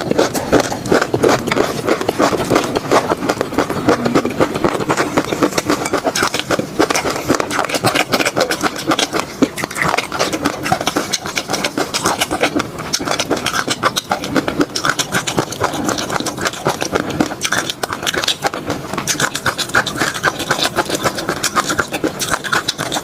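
Close-miked eating sounds: wet, sticky mouth clicks and smacking as food with peanut sauce is chewed, in a dense, unbroken run.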